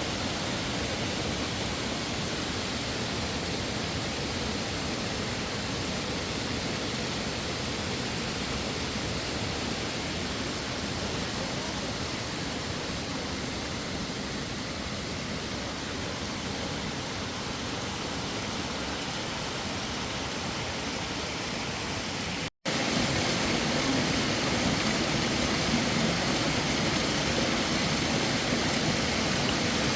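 Steady rushing noise with no distinct events. It cuts out for an instant about 22 seconds in and comes back a little louder.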